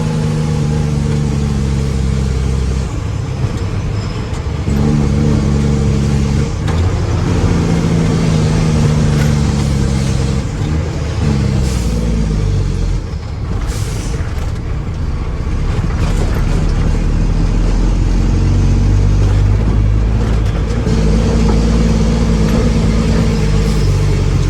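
Mack dump truck's diesel engine running loudly, its revs rising and falling several times.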